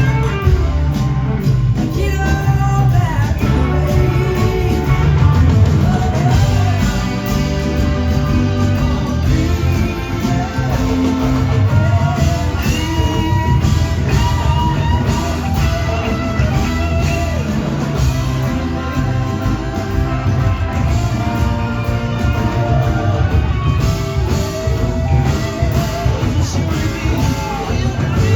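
Live rock band playing an extended jam: electric guitar lines over bass and drums, loud and continuous.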